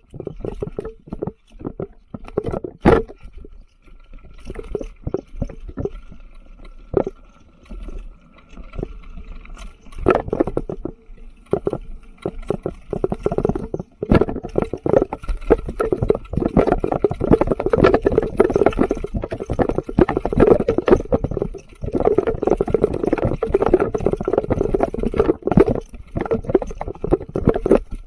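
Mountain bike riding a rough, rocky trail: the frame and chain rattle and the tyres knock over rocks in quick irregular hits, sparser at first and turning into a dense, louder clatter about halfway through.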